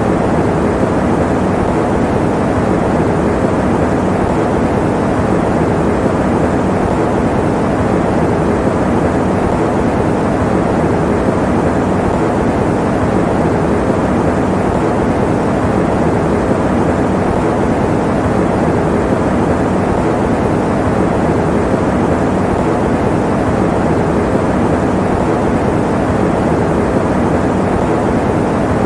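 Electric fan running steadily: an even, unbroken rush of air noise, heavy in the low and middle range, that never changes.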